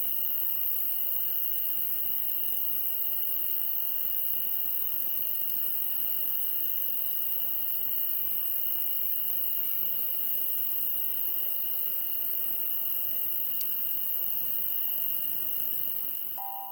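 Crickets and other night insects trilling steadily, a high continuous ring with a softer pulsing chirp repeating about once a second, with a few faint crackles from the campfire. The insect sound fades out in the last second.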